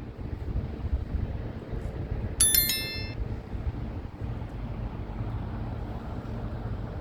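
Steady low rumble of outdoor background noise. About two and a half seconds in comes a brief, bright, high metallic ring lasting under a second.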